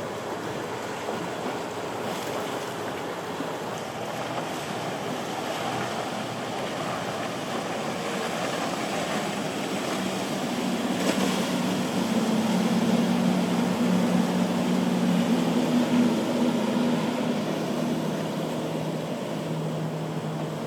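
Surf and wind noise, with a boat's engine passing: a steady low hum comes in about halfway through, is loudest a few seconds later, then fades near the end.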